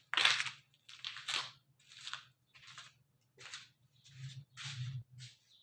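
A series of short crunching, scraping noises, about one or two a second and of uneven strength, over a faint low steady hum.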